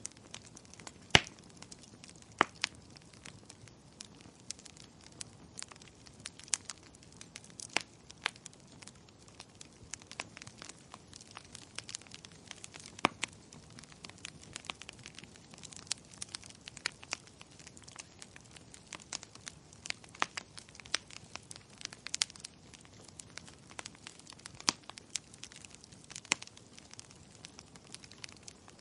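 Wood fire crackling: irregular sharp pops and snaps of uneven loudness over a faint steady hiss, with a louder pop about a second in and another soon after.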